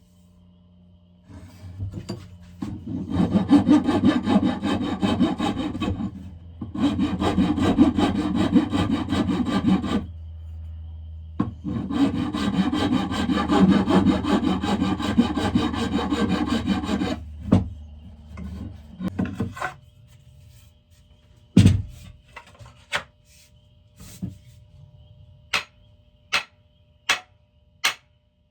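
Wooden axe handle being shaped by hand, a rough rasping scrape in three long spells as the shoulder is worked down to fit the axe eye. Near the end comes a string of evenly spaced sharp knocks.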